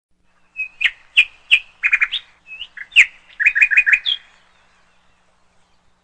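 Small birds chirping: a string of short, sharp chirps, some in quick runs of three or four, stopping a little after four seconds in.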